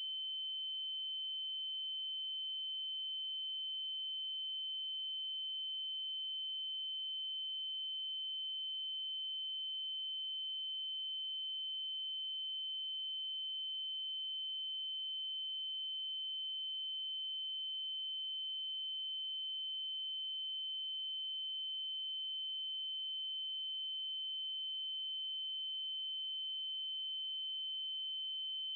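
Synthesized 3072 Hz triangle-wave tone, a steady high-pitched whistle-like pure note held without change.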